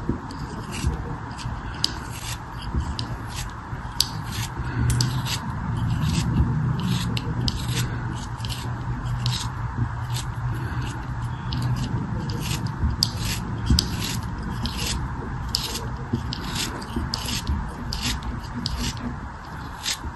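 Rapid, repeated scratchy scraping strokes, about two or three a second, over a steady low hum.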